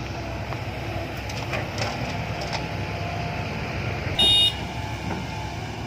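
Diesel engines of a Komatsu PC130 excavator and a six-wheel dump truck running steadily, with a few light clanks. A short, loud horn beep about four seconds in, just as the truck is loaded full.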